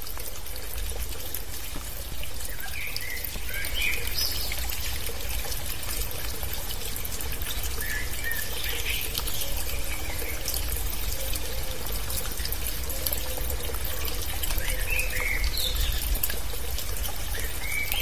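Birds chirping in short calls every few seconds over a steady rushing hiss with a low rumble.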